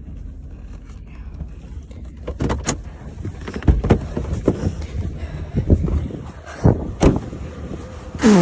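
A vehicle engine running steadily, with a series of loud knocks and clunks starting about two seconds in.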